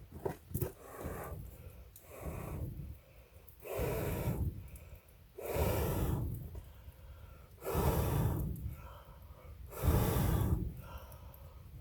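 A man's heavy breathing close to the microphone, breaths coming about every two seconds and growing louder.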